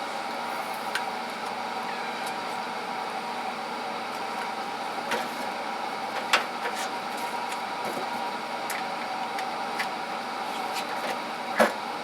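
Steady machine hum holding several even tones, with scattered light clicks and clinks of tools being handled and one sharper knock near the end.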